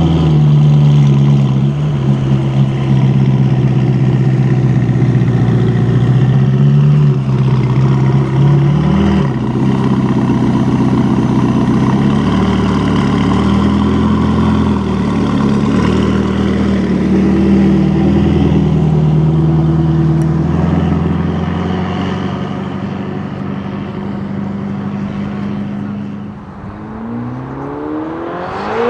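A car engine running at low revs, low and steady, with small rises and falls in pitch. Near the end an engine revs up sharply, climbing quickly in pitch as the car accelerates hard.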